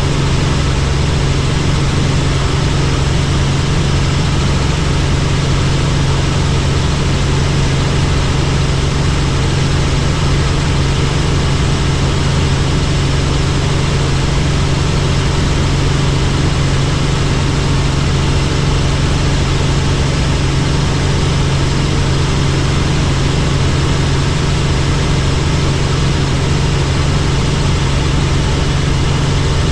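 Helicopter in flight: a loud, steady drone of engine and rotor with a constant low hum, holding an even pitch throughout.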